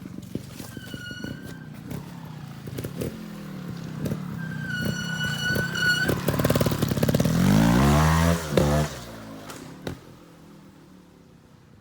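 Trials motorbike engine running at low revs among knocks and clatter, then revved up and back down, loudest a little past halfway. Two short high squeals come about a second in and around five seconds in.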